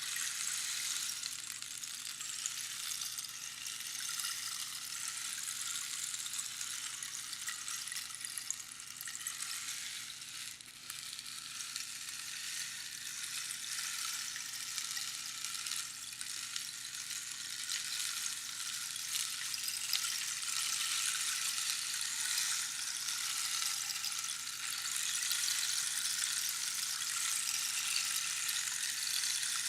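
Rainstick: small pebbles cascading down the hollow tube past its inner pins in a continuous high, hissing patter like falling rain. The sound swells and eases, dipping briefly about ten seconds in.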